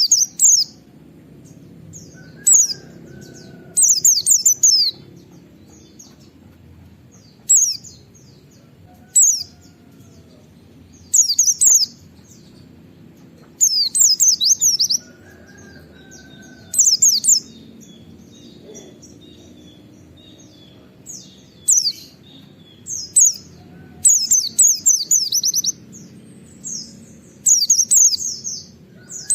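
Pleci (white-eye, Zosterops) singing its 'wit wit' song: short bursts of rapid, high, falling chirps, each about a second long, repeated every two to three seconds.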